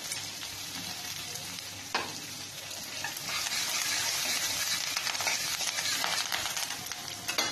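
A tempering of mustard seeds, dals, chillies, curry leaves and asafoetida sizzling in hot oil in a stainless steel kadai as it is stirred. A single sharp knock comes about two seconds in, and the sizzle grows louder from about three seconds in.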